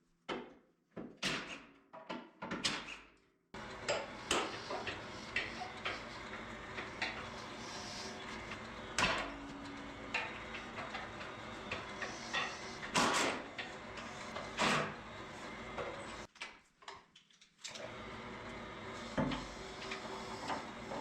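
Irregular knocks, clicks and clatter of objects being handled and set down in a shop, over a steady background noise. The background drops out briefly about two-thirds of the way through.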